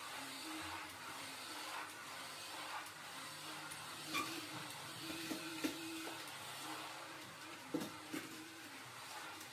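Quiet room tone with a faint steady hum and a few light clicks and taps.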